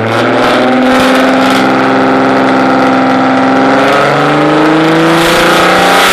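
Audi A4 2.8 V6 quattro's exhaust as the engine is revved up and held at a steady high rev for about five seconds.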